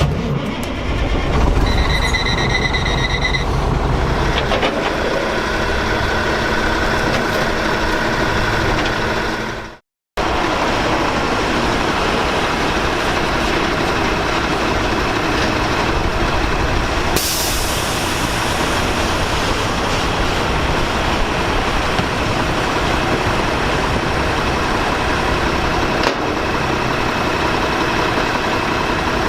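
Maxon MSL side-loader garbage truck running, in two takes split by a sudden cut about ten seconds in. A short high whine comes about two seconds in, and a brief burst of air hiss about seventeen seconds in.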